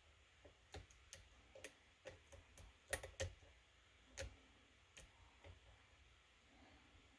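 Faint, irregular light clicks from lock-picking tools being handled and worked at a lock cylinder. There are about a dozen over the first five seconds, then the clicks fade out.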